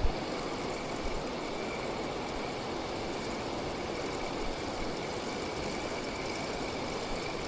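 Steady rushing of water pouring over a weir, with a thin, steady high whine that sets in right at the start.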